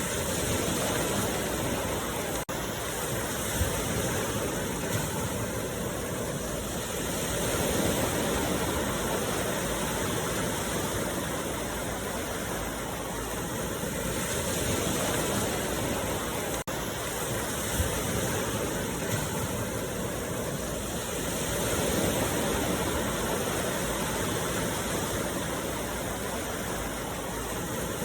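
Ocean surf breaking on a beach: a steady rush of waves that swells and eases every several seconds.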